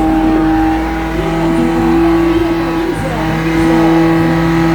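Car engine held at steady high revs, its pitch almost unchanging, with faint crowd voices underneath.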